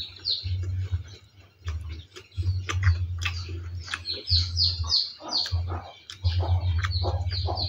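Birds chirping in quick, repeated short falling notes, over close-up chewing and crunching of boiled bamboo shoot and a low hum that comes and goes.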